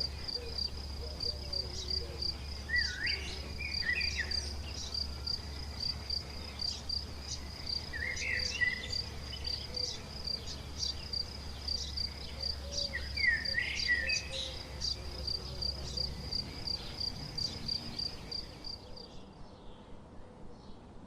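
Insect, cricket-like, chirping in a steady high pulsing trill, with a bird giving a short call with quick up-and-down pitch glides three times, about five seconds apart. The insect trill stops near the end.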